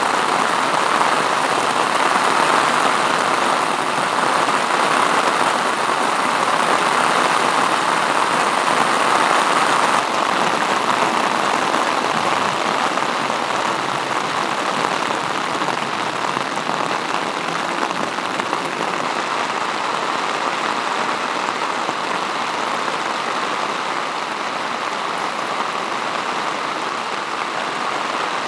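Heavy rain pouring down in a dense, steady hiss, easing slightly about a third of the way through.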